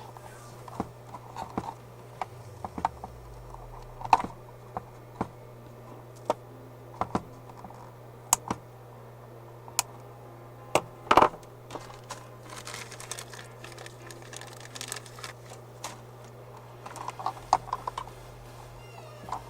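Irregular small clicks and taps of wires, cable straps and plastic enclosure parts being handled and fitted together on a workbench, over a steady low hum.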